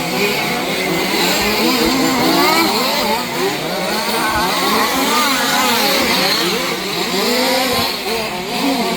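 Several 1/5-scale RC off-road cars' small petrol two-stroke engines racing together, the engines overlapping as each one revs up and drops back again and again.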